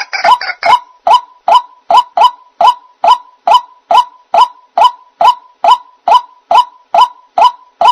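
White-breasted waterhen (ruak-ruak) calling: one short note, repeated steadily about twice a second.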